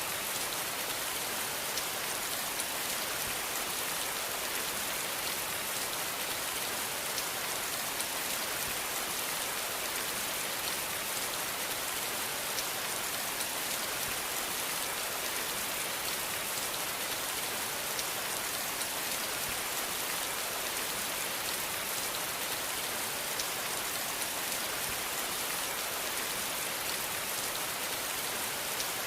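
Steady rain falling on a surface, a continuous hiss of many fine drops with no change in intensity.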